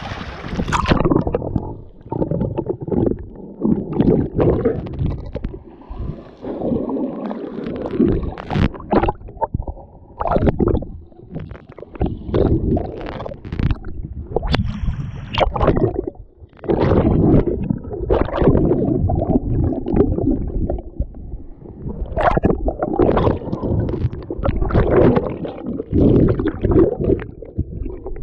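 Muffled gurgling and sloshing of sea water heard through a submerged or splashed camera microphone, coming in irregular surges with sharp splashy spikes.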